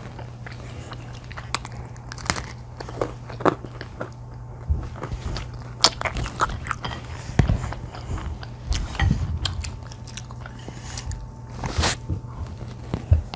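Close-miked chewing and biting of crunchy pizza crust, with irregular crunches and crackles over a steady low hum.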